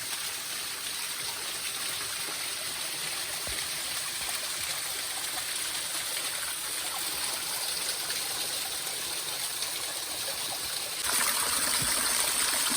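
Steady rush of falling water from a waterfall, turning suddenly louder and brighter about eleven seconds in.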